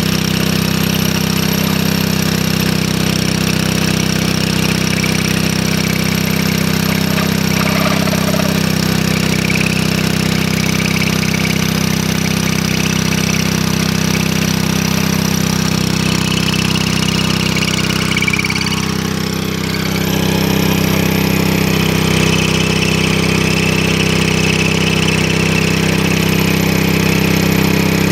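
Small engine of a portable rail-drilling machine running steadily, with a brief dip in level about two-thirds of the way through.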